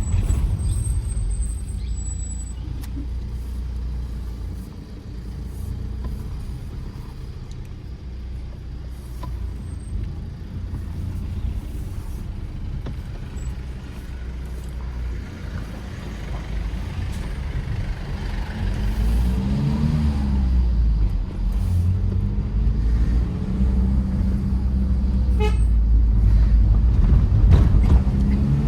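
Tata Safari Storme's diesel engine and tyres running as the SUV drives along a hill road, the engine note rising and falling about two-thirds of the way in and growing louder toward the end. A short, faint horn toot sounds near the end.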